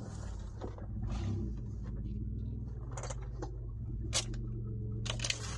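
The 2008 Mitsubishi Endeavor's 3.8-litre V6 running, a steady low hum heard inside the cabin, with several sharp clicks and knocks over it, the clearest about four seconds in and a cluster near the end.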